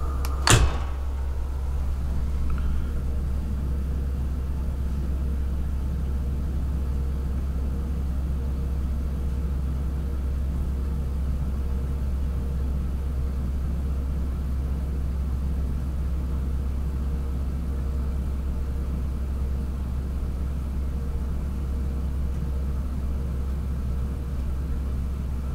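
Steady low rumble of an SJ InterCity passenger coach running along the track, heard from inside the carriage, with a single sharp click about half a second in.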